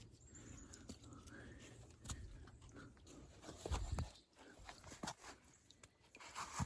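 Faint close handling noises: rustling and scattered soft knocks and clicks as a hiking shoe is taken off and emptied of debris.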